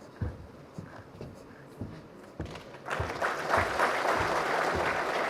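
A series of low thumps, about two a second, then an audience breaking into applause about three seconds in, which keeps going.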